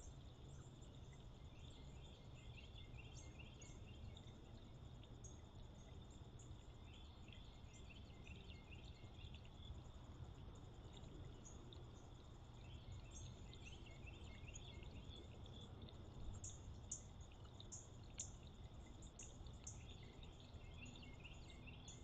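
Faint outdoor night-time ambience: a steady high insect drone with clusters of short chirps every few seconds and a few sharper high notes late on, over a low steady rumble.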